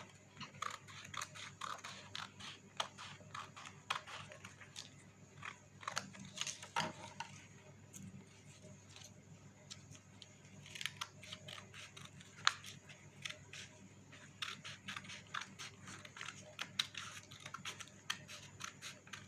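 Colored paper sheet being cut along a fold line: an irregular run of small sharp clicks and paper crackles.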